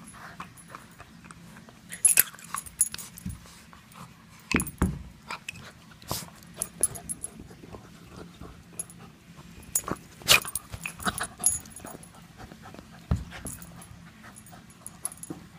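A dog whimpering and panting in excitement, with irregular sharp clicks and knocks, the loudest about two seconds and ten seconds in.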